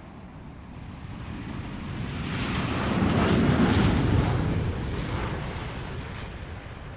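Jet airliner taking off: a rushing, rumbling engine noise that swells to a peak about three to four seconds in, then fades away.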